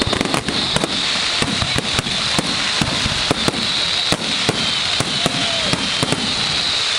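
Fireworks display going off: a dense, continuous crackle with many sharp bangs in quick succession.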